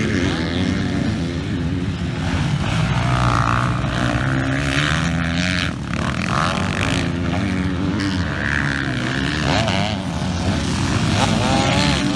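Dirt bike engine revving up and down, its pitch rising and falling with the throttle.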